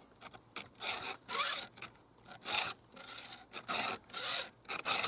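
Stihl 2-in-1 Easy File chainsaw sharpener rasping across the cutters of a 3/8 Picco saw chain: about six short push strokes with brief pauses between them.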